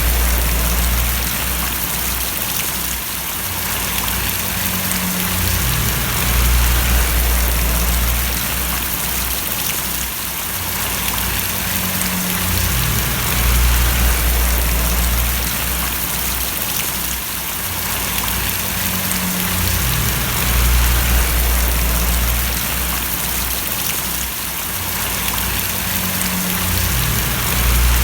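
Steady rain falling and splashing, an even hiss, with a low rumble underneath that swells and drops away every several seconds.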